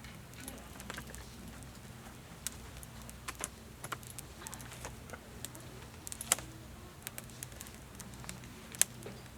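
Wood fire crackling: irregular sharp pops and snaps, a few of them louder, over a faint steady low hum.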